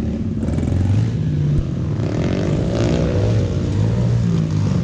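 Pit bike engine revving, its pitch climbing and dropping several times as the rider works the throttle.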